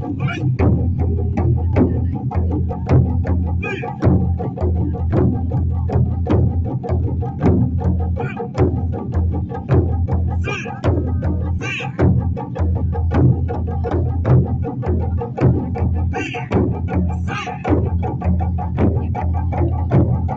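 Japanese taiko drums played in a steady, driving rhythm of about three strokes a second, deep booming drum hits mixed with sharp clacks of the sticks.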